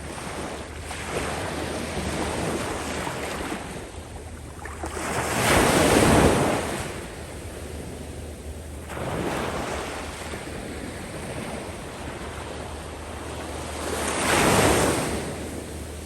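Surf on a sandy beach: waves break and wash up over the sand in slow swells, the loudest about six seconds in and again near the end. A low wind rumble on the microphone runs underneath.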